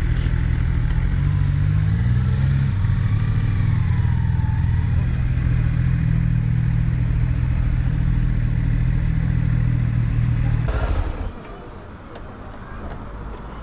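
Kawasaki Ninja 300's parallel-twin engine running at low revs, rising briefly early on and then holding steady, before it is switched off about eleven seconds in. A few faint clicks follow.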